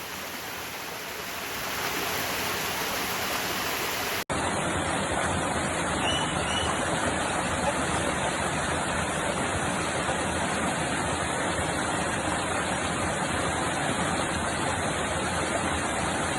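Waterfall: a steady rush of falling water. It drops out for an instant about four seconds in, then comes back louder.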